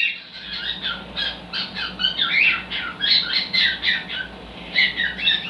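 Cockatiel chattering: a quick run of short, high chirps and squawks that keeps on without a break.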